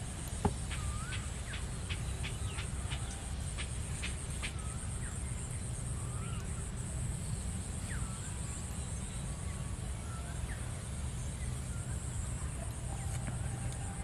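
Birds chirping, with many short calls in the first few seconds and fewer later, over a steady high-pitched hiss and a low rumble.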